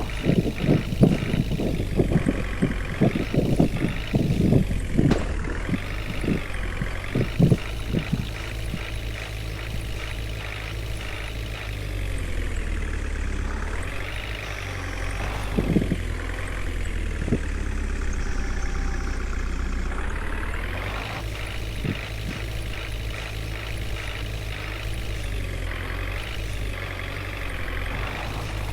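Water tanker truck's engine running steadily, with a series of knocks and clatters in the first eight seconds and a few more around the middle.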